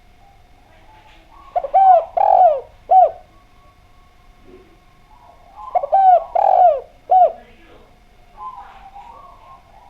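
Spotted dove (derkuku) cooing: two phrases of about four short notes each, every note bending up and then falling, the phrases a few seconds apart.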